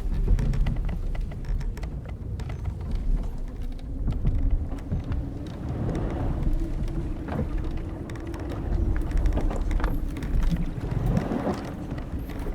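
Old wooden sailing ship's timbers and ropes creaking, with a long drawn groan through the middle and shorter creaks, over a heavy low rumble of sea and wind. Scattered faint ticks and drips run throughout.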